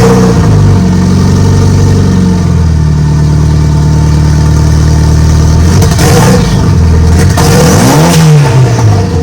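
Renault Megane R26 turbocharged 2.0 four-cylinder, swapped into a Clio, running loud and being revved on a first boost test; its note steps up a couple of seconds in and rises and falls near the end. A rush of air noise comes about six seconds in and again a little later: the boost blowing the dump valve off its pipe and letting the boost out.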